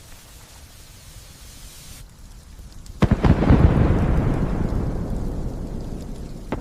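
Light rain hissing, then about three seconds in a sudden nearby thunderclap that rumbles and slowly fades.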